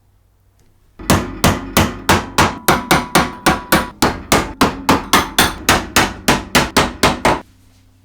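Steady hammering during restoration work: about twenty even strikes, roughly three a second, each with a short ring. The strikes start about a second in and stop near the end.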